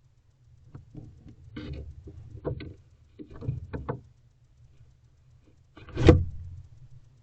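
Barn owls moving about inside a wooden nest box: a run of scratchy scrapes and light knocks from talons on the wood, then one loud thump about six seconds in.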